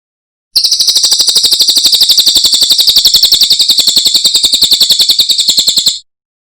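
Cililin songbird singing one long, fast, even trill of about a dozen high notes a second, starting about half a second in and cutting off abruptly.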